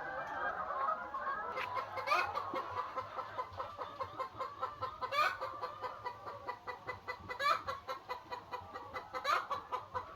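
A flock of chickens clucking in a steady chatter, with four louder calls standing out about two, five, seven and a half and nine and a half seconds in.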